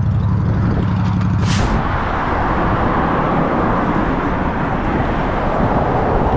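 Motorcycle engine running at idle, then a brief hiss about a second and a half in, after which a steady rush of wind and engine noise as the motorcycle rides on.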